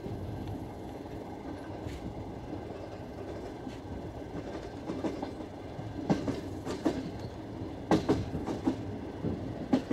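Passenger train coaches running at speed: a steady rumble of wheels on the rails, with clickety-clack knocks over the rail joints that set in about halfway through and grow louder toward the end.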